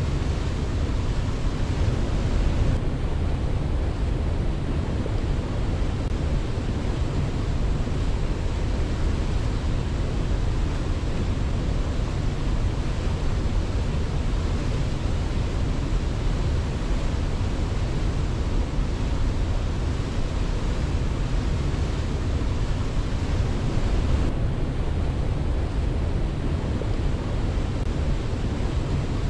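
Waterfall: a steady rush of falling water, heaviest in the deep low end, with no birdsong or other events.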